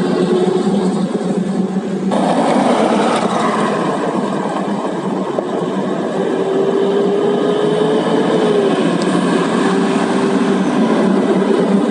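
Heavy coal hauling truck's diesel engine running with a loud, continuous drone and a steady hum that rises slightly in pitch partway through. The sound changes abruptly about two seconds in.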